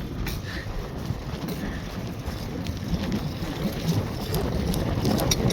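Wind buffeting a phone microphone while riding a bicycle: a steady low rumble with a few light clicks.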